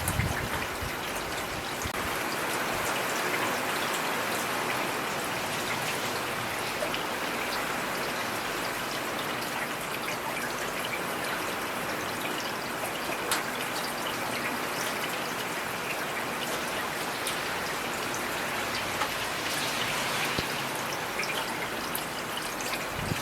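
Heavy rain falling steadily as an even hiss of many drops, with a few sharper single drop ticks standing out.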